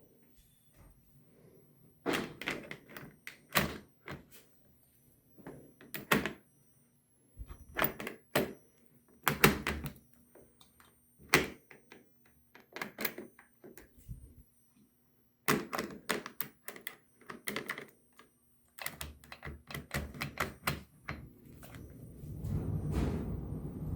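Irregular sharp clicks and knocks in quick clusters as the model railroad layout is started up, then a steady low rumbling noise sets in about 22 seconds in.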